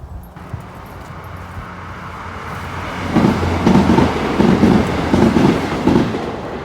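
Train passing close by: a rushing noise that builds, then the wheels clatter over the rail joints in a regular beat for about three seconds before easing off near the end.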